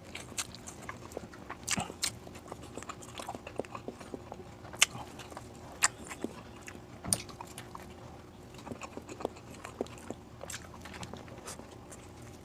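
A person eating close to the microphone: chewing, with irregular sharp mouth smacks and clicks.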